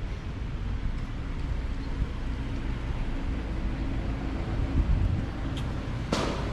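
City street traffic: a low, steady engine rumble from vehicles close by, with a short hiss about six seconds in.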